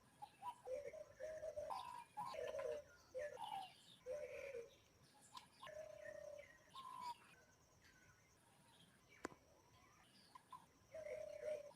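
A dove cooing in short repeated low phrases, with a quieter stretch in the middle before it starts again near the end; small birds chirp faintly behind it, and there is one sharp click about nine seconds in.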